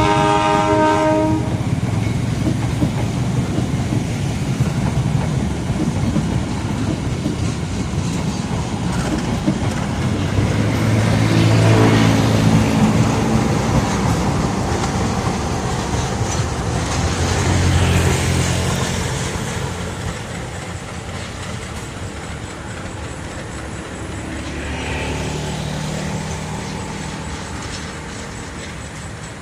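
A train passing close by on the line. A locomotive horn sounds briefly at the start. The wheels and rail cars rumble and clatter steadily, loudest in the middle, then fade over the last ten seconds.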